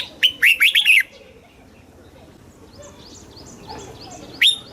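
Red-whiskered bulbul singing: a loud phrase of quick, slurred whistled notes in the first second, fainter chirps in between, and a second phrase starting near the end.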